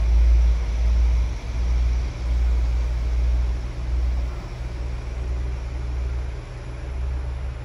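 BRB regional train pulling away from the platform and running off down the track, under a heavy, uneven rumble of wind on the microphone.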